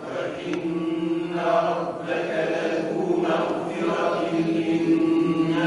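A group of men reciting a Quranic verse together in unison, in slow, drawn-out chanted tajwid recitation, repeating the phrase just recited by their teacher.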